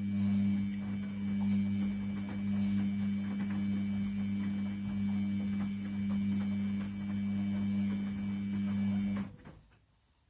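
Washing machine motor turning the drum during the wash cycle: a steady hum with light clicking and rattling, stopping abruptly about nine seconds in.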